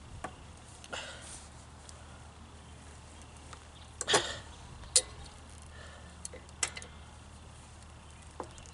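Scattered clicks and knocks of tools and plastic parts being handled while a lawn mower's kill cable and plastic cable fitting are worked off, with a louder rattling knock about four seconds in and a sharp click a second later, over a faint low hum.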